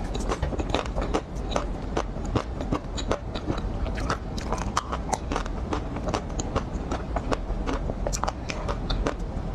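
Close-miked biting and chewing of chocolate ice cream, with many small irregular crackles and clicks.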